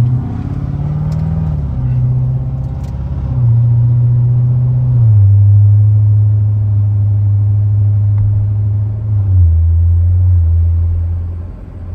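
Supercharged LT4 V8 of a C7 Corvette Z06 with a BTR stage 2 camshaft, heard from inside the cabin while driving: a steady low drone whose pitch steps down a little about five seconds in and again near nine seconds.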